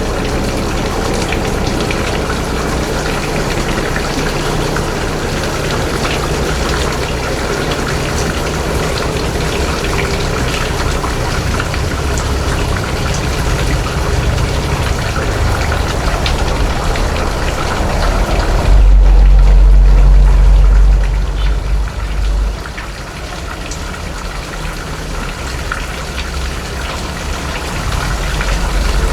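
A boat engine running steadily under a constant rush of water noise. About two-thirds of the way through, a loud low rumble lasts about three seconds, then the sound settles a little quieter.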